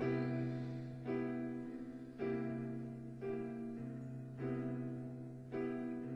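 Piano playing slow, sustained chords, one struck about every second and fading before the next, as an instrumental passage between sung lines of a gentle ballad.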